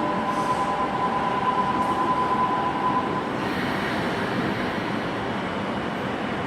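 Hokuso 9100 series electric train running on rails: a steady high whine fades out about three seconds in, leaving the rolling rumble of the wheels.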